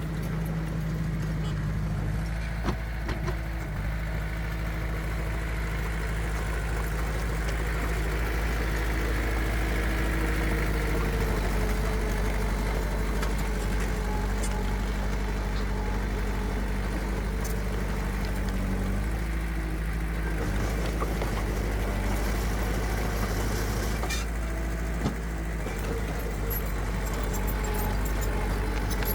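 Diesel engines of heavy earthmoving machinery running steadily, the engine note shifting a few times, with a short knock about three seconds in and another near the end.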